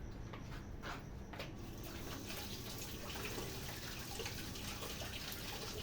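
A few clicks, then water running and splashing from about two seconds in.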